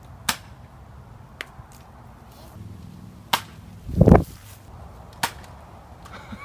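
A few sharp, isolated knocks or clicks, spaced irregularly, with one louder low thump about four seconds in.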